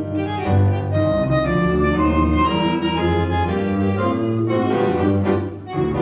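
Live tango-klezmer ensemble of clarinet, bandoneon, piano and double bass playing, a melody moving over a walking bass line.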